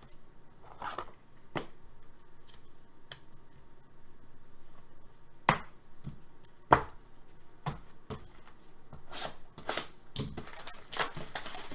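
Trading cards and packaging being handled on a table: scattered sharp clicks and taps, with a denser rustle near the end.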